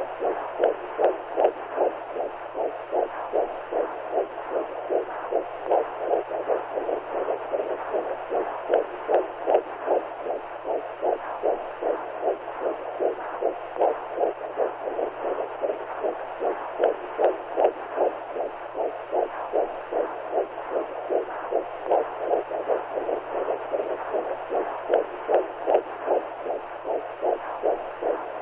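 Womb sound for soothing a baby: a rhythmic whooshing heartbeat pulse beating evenly over a steady hiss, with a faint low hum underneath.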